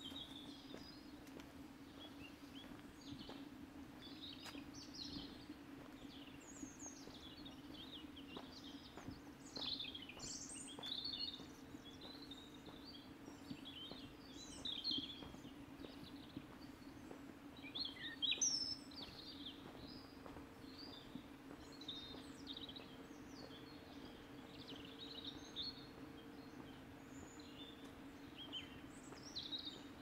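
Small woodland birds chirping and calling, many short high calls one after another, over a steady low hum. The loudest calls come about ten seconds in and again just past the middle.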